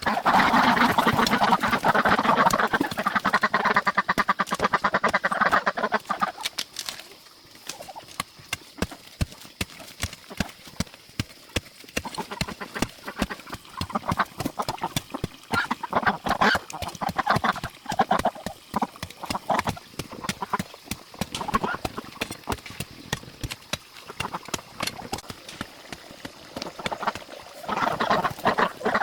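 A flock of domestic ducks quacking: a dense, loud chorus for about the first six seconds, then scattered quacks with many small clicks, and the calling builds again near the end.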